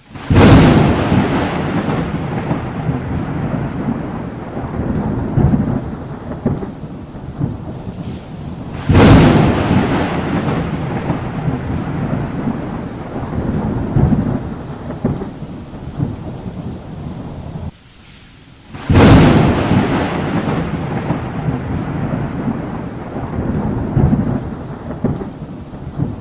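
Thunder in a rainstorm: three sharp thunderclaps, one right at the start, one about nine seconds in and one about nineteen seconds in, each trailing off into a long rumble, with steady rain underneath.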